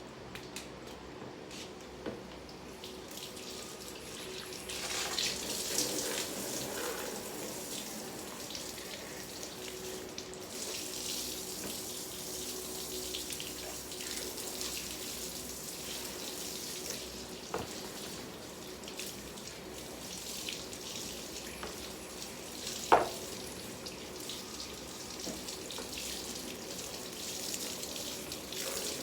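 Water running from a tap into a sink, starting a few seconds in, with a few light clinks and one sharp knock late on.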